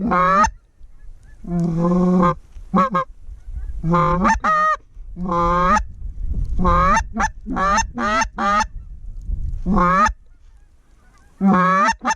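Geese honking: about a dozen loud, separate honks, some single and some in quick runs of two or three, with a brief pause near the end. A low rumble of wind runs underneath.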